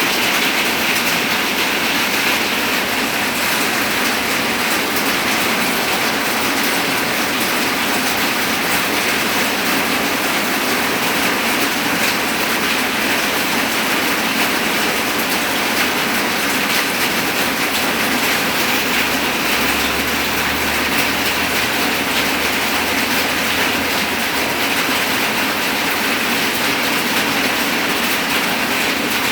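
Heavy rain pouring down, a loud, steady hiss of rainfall during a storm.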